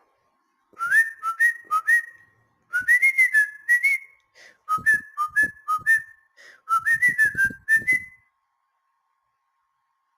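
Four short runs of quick, mostly upward-sliding whistled notes, three to five notes in each run, ending about eight seconds in.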